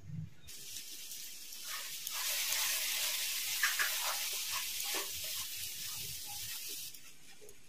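Prawns and masala sizzling in a hot kadhai while a wooden spatula stirs through them. The sizzle swells about two seconds in and fades near the end.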